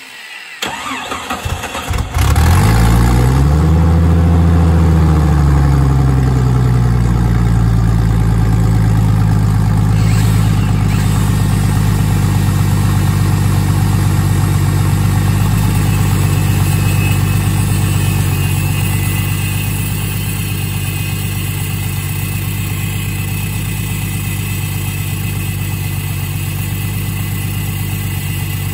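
The Jeep Cherokee XJ's engine is cranked and catches about two seconds in, revs up and falls back over the next few seconds, then settles into a steady idle. In the second half, the higher whine of an angle grinder joins as it cuts into the steel output shaft of the transfer case.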